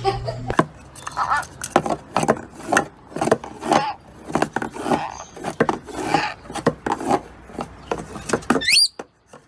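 Parrot making a rapid run of sharp clicks and scratchy, rasping sounds, then a quick rising whistle near the end.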